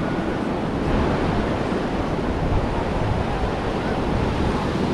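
Ocean surf washing onto a sandy beach, a steady rush of waves, with wind buffeting the microphone.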